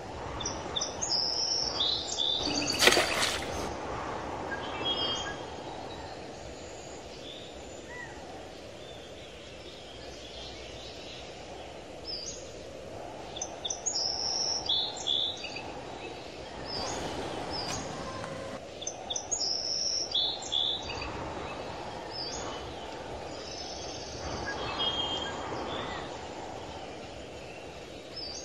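Small birds chirping in short clusters of high calls, over steady low outdoor background noise. One sharp knock about three seconds in is the loudest sound.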